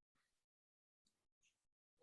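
Near silence: the recording's audio is gated to almost nothing.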